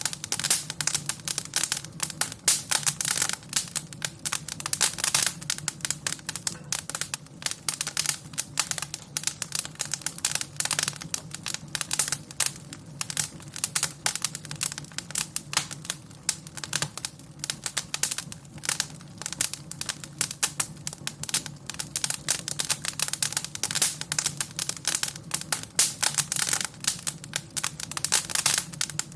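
Wood fire crackling and popping: rapid, irregular snaps over a steady low rumble of the flames.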